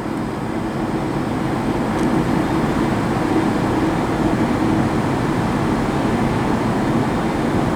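Class 444 Desiro electric multiple unit pulling out of the station, a steady running noise that slowly grows louder as it gathers speed.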